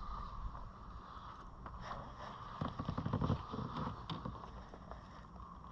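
Low wind rumble on an action-camera microphone with no windsock, with scattered clicks and a louder burst of scraping and knocking about three seconds in.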